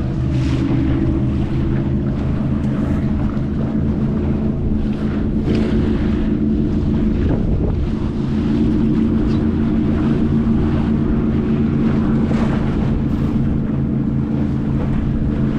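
A steady engine hum holding one even pitch, with wind gusting on the microphone over it.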